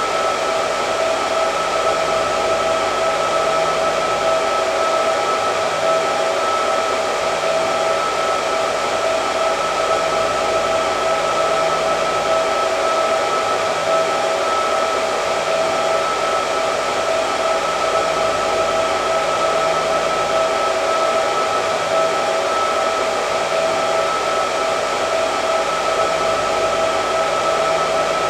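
Hair dryer running continuously: a steady rush of blown air with a constant whine from the motor, unchanging in level or pitch.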